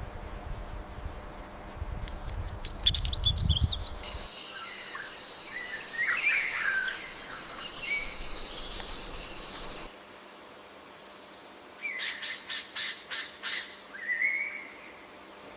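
Rainforest bird calls and chirps over a steady high-pitched tone. A fast run of calls comes about three seconds in, scattered chirps follow, and a quick series of about seven calls comes near the end. The background ambience changes abruptly twice, as at cuts between recordings.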